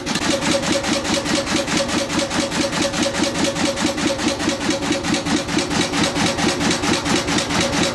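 Marine engine running steadily at idle with an even, rapid firing beat.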